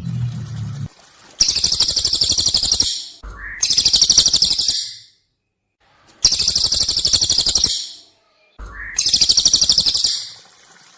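A songbird giving four long, very high-pitched, rapidly pulsing trills, each about a second and a half long, with short gaps between them. A low hum sounds for about the first second.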